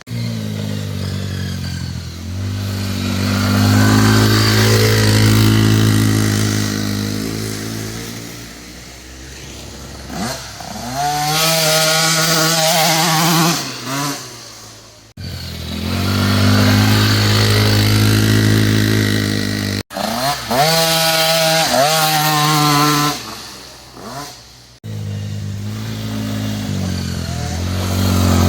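Dirt bike engine running and revving: the pitch holds, then climbs sharply a couple of times, and the sound breaks off suddenly in several places.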